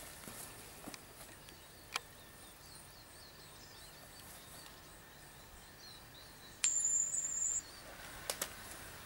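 Faint outdoor ambience with small, high bird chirps in the background and a single click about two seconds in. About two-thirds of the way through, a sharp click is followed by a steady, high-pitched beep lasting about a second, the loudest sound.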